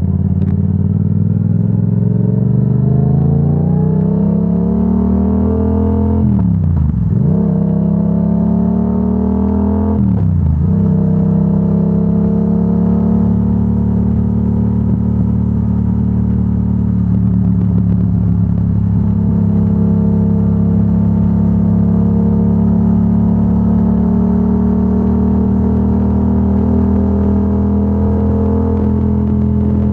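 Yamaha R7 parallel-twin engine through a Yoshimura AT2 full exhaust, accelerating with rising revs and shifting up twice, about seven and ten seconds in. Each shift brings a brief dip in the engine note and lower revs that then climb again, before the engine settles to a steady cruise.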